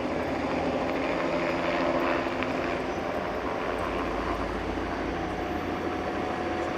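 Helicopter flying overhead, its rotor and engine running steadily. A faint tone, slowly rising in pitch, comes in near the end.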